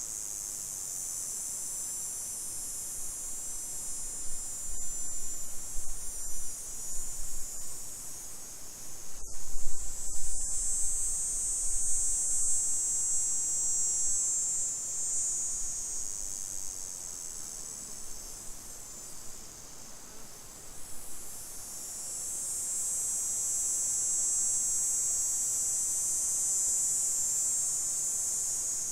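A loud insect chorus, a high steady chirring that swells and fades over several seconds at a time. Low rumbling bumps come through in the middle.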